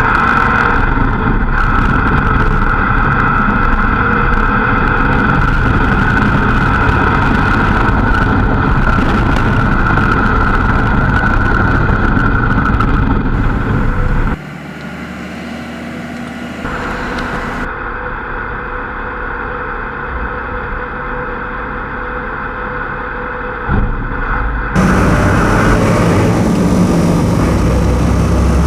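Ramp truck's engine running steadily as it drives carrying a vehicle on its bed, pulling the load without strain. The sound drops suddenly about halfway through and comes back loud a few seconds before the end.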